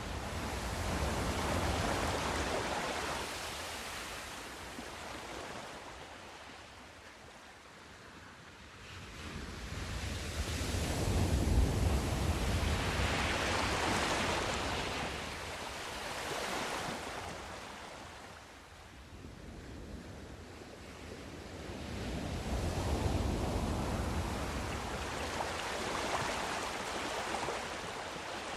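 Sea surf: waves breaking and washing up the shore in three slow swells about ten seconds apart, each rising to a rush of noise and then falling away.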